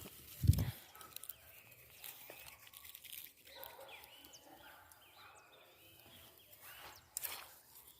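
Faint outdoor background with distant animal calls, which could be birds or fowl, after a single low thump about half a second in.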